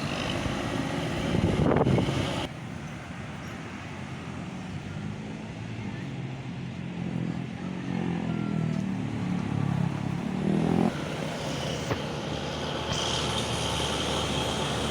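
Heavy tipper truck's engine running amid traffic noise, its pitch rising and falling a few times in the second half. A louder noise about two seconds in cuts off suddenly.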